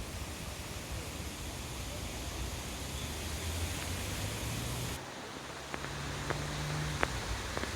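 Footsteps of someone walking on a path: sharp taps roughly every half second to second from about five seconds in, over a steady rushing outdoor background.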